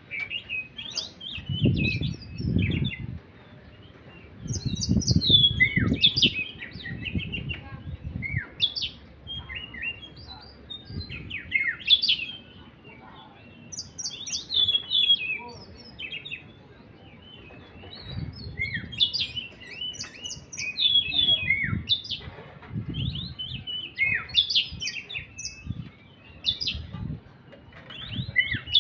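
A caged songbird chirping and twittering in quick clusters of short high calls, with pauses between the bursts. Stretches of low rumbling noise run underneath at times.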